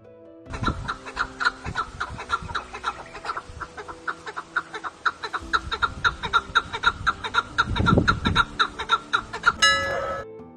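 Chukar partridge calling: a long, rapid run of repeated clucking notes, several a second, with a different, higher call just before it stops.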